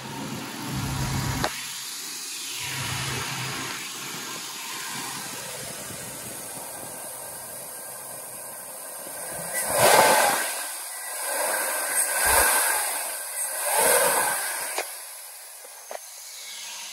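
Chevrolet 5.3 L LM7 V8 running under the open hood, heard mostly as a steady rushing hiss with a low engine hum only briefly at the start. Past the middle it surges louder three times, about two seconds apart.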